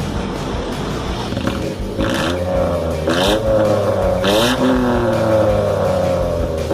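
Mitsubishi Mirage's engine idling through an aftermarket exhaust muffler, blipped three times about a second apart, each rev rising and falling quickly before settling back to idle.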